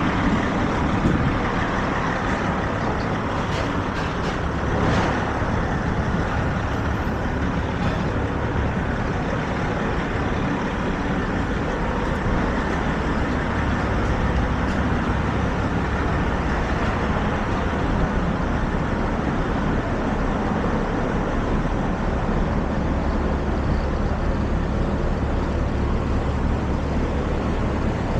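Busy city street traffic: a steady rumble of engines from buses, trucks and cars, with a few short knocks about four seconds in.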